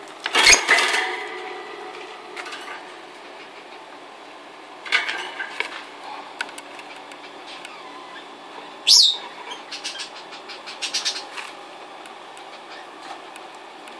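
Fischer's lovebirds giving short, shrill, harsh calls at intervals, the loudest about half a second in and near the nine-second mark, with a quick run of clicks soon after.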